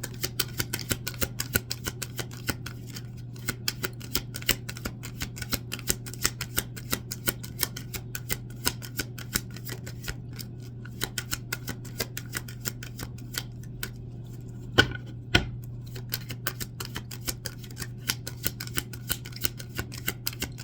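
Oracle cards being shuffled by hand, a dense run of light irregular clicks with two sharper snaps about two-thirds of the way through, over a steady low hum.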